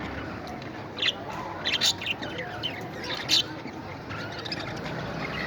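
Pet parrots chirping: a few short, sharp calls, a cluster around one to two seconds in and another, the loudest, a little after three seconds.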